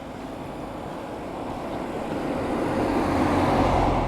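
A car driving past close by, its tyre and engine noise growing louder to a peak near the end.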